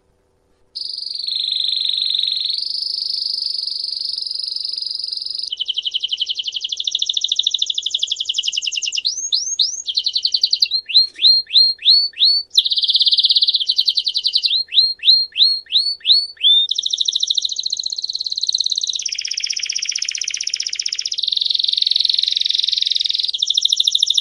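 A songbird singing a long, unbroken song of rapid trills that switch to a new trill every one to three seconds, with runs of quick downward-sweeping notes near the middle. The song starts just under a second in.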